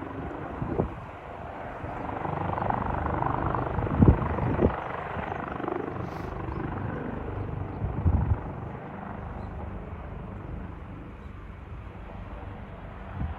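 Leonardo AW139 helicopter's rotor and turbines running, swelling a couple of seconds in and then holding steady. Gusts of strong wind thump on the microphone several times, loudest about four seconds in.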